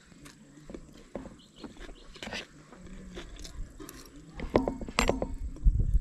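Close, wet mouth sounds of a person eating: chewing and smacking with many small scattered clicks, and a low rumble starting near the end.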